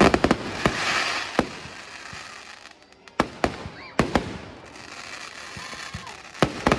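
Fireworks exploding: a quick cluster of sharp bangs at the start, then single and paired bangs every second or so, with a crackling hiss trailing the first volley.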